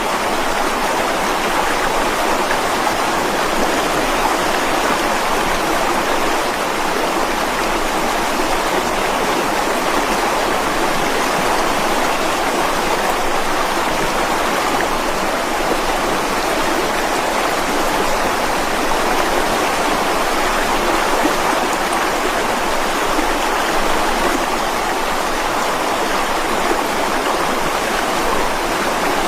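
Mountain stream running steadily over rocks, a constant rushing of water.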